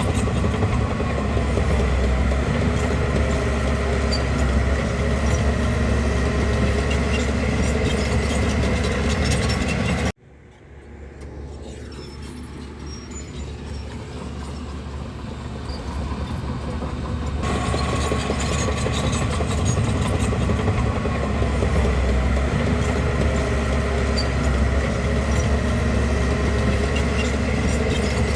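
Bulldozer's diesel engine running steadily. About ten seconds in the sound cuts off abruptly, returns much quieter and builds back up to full over several seconds.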